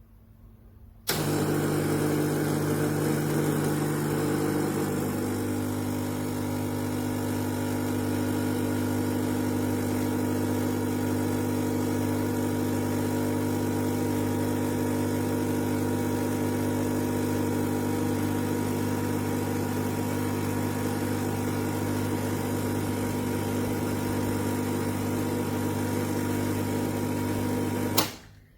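Electric coffee grinder with 38 mm conical burrs running steadily for most of half a minute, its motor hum starting abruptly and cutting off suddenly near the end.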